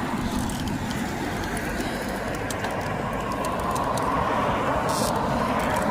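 A vehicle going by: a steady rushing noise that grows louder in the second half.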